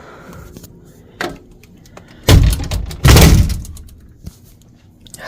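Two heavy thuds about a second apart, each loud and followed by a short rough tail.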